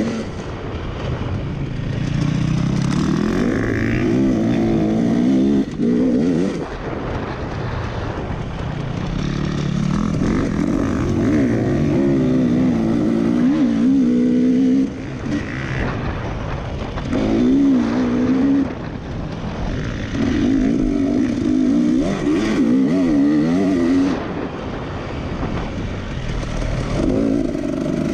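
Racing engines running hard, their pitch repeatedly rising and falling as they rev up and back off, with sudden drops in level a few times.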